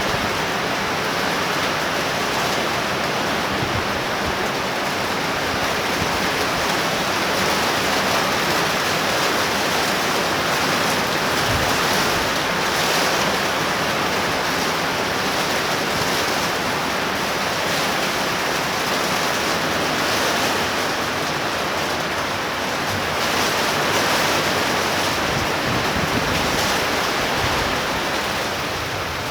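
Torrential rain pouring down steadily, a dense, even hiss.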